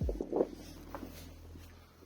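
Footsteps, with low wind rumble buffeting the microphone that gusts at the start and dies away.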